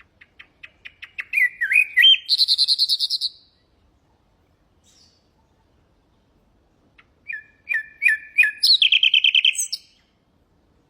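Nightingale singing two song phrases, each opening with a run of quick separate notes that speed up and ending in a loud, rapid trill; the second phrase starts about seven seconds in.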